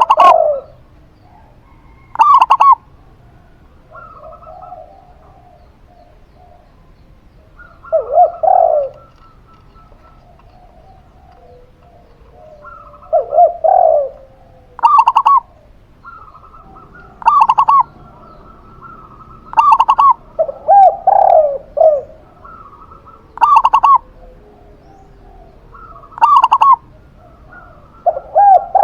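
Zebra dove and spotted dove cooing in turn, one short phrase every two to three seconds, some calls higher-pitched and clipped, others lower and rolling.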